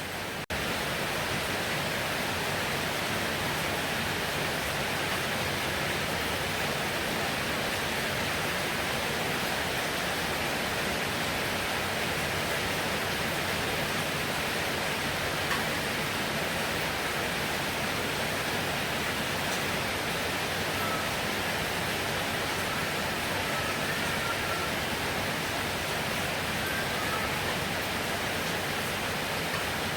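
Heavy rain falling in a steady, even hiss. It drops out for an instant about half a second in, then carries on a little louder.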